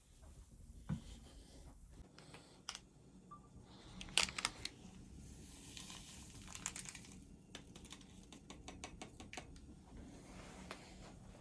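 Irregular light clicks and crackles, clustered about four seconds in and again from about six to nine and a half seconds in.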